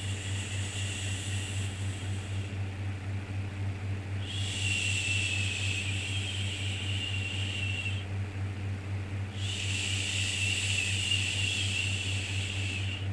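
A soothing 'shhh' shushing sound for babies, drawn out for about four seconds at a time and repeating after short pauses of a second or so, over a steady low hum.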